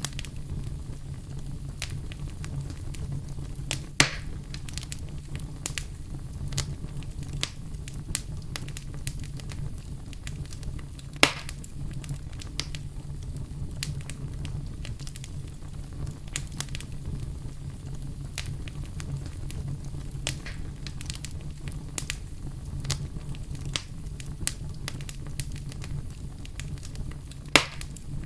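Wood fire in a fireplace burning with a steady low rumble and frequent crackles. Three louder pops stand out, at about 4, 11 and 27 seconds in.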